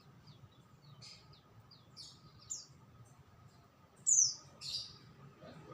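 Songbird chirping: a series of short, high chirps, the loudest a quick falling chirp about four seconds in, followed by another.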